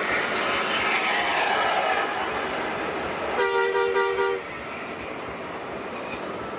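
A bus moving on the road, with steady rushing road and engine noise that swells and falls over the first two seconds. About three and a half seconds in, a multi-tone air horn sounds a two-note chord for about a second, then cuts off.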